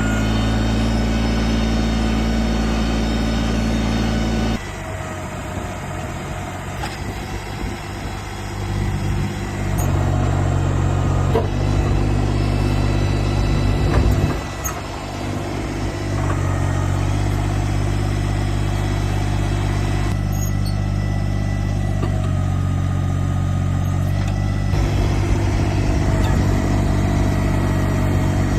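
Kubota tractor's diesel engine running as its backhoe digs. The engine note drops back about four seconds in, picks up again around ten seconds, dips briefly a few seconds later, then holds steady.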